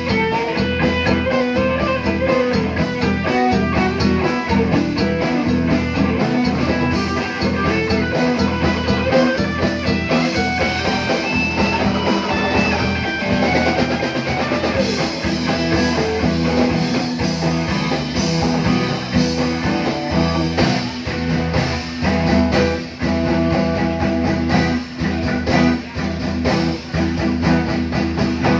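Live band playing an instrumental passage: a moving plucked-guitar melody over steady sustained low notes and a drum-kit beat.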